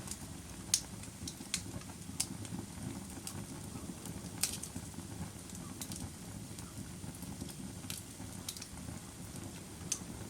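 Fire crackling: irregular sharp pops and snaps, the loudest about a second in, over a steady low rumble of the flames.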